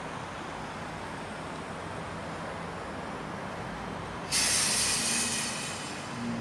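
Steady hum of residential street ambience, broken about four seconds in by a sudden loud hiss that fades away after a second or two, with a faint low engine tone underneath.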